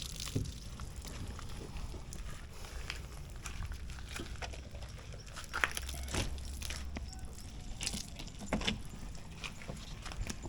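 Scattered small clicks and rustling over a low, steady hum.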